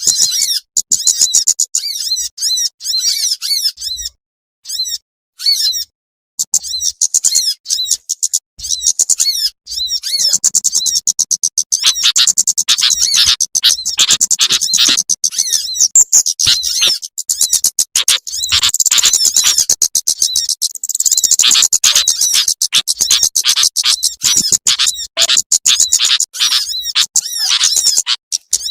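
Recorded lure calls of small birds such as sunbirds: fast, high-pitched chips and trills repeated almost without pause, with a few short breaks early on.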